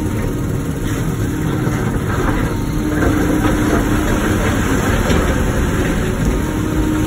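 Wacker Neuson ET145 excavator's diesel engine running steadily with a held tone in its sound, working a little harder from about three seconds in.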